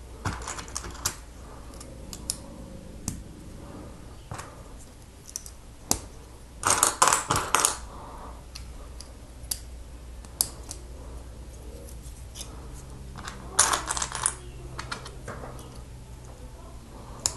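Plastic Lego bricks clicking as they are handled and pressed together, with a couple of busier clattering spells of pieces, about seven and fourteen seconds in.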